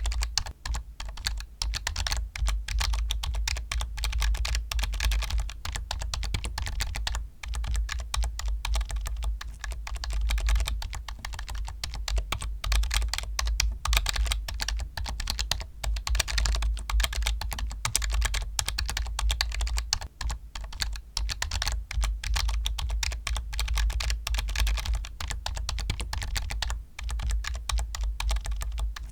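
Fast, continuous typing on a computer keyboard, with dense clicking keystrokes and a couple of brief pauses.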